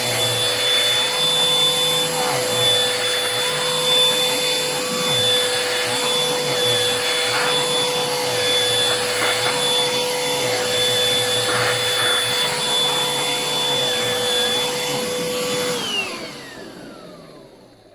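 Bissell Pet Hair Eraser lithium-ion cordless hand vacuum running with a steady whine, then switched off near the end, its motor winding down with a falling pitch.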